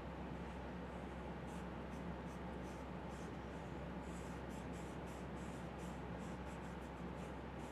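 A drawing tool scratching on paper in short, irregular strokes, more often in the second half, over a steady low hum.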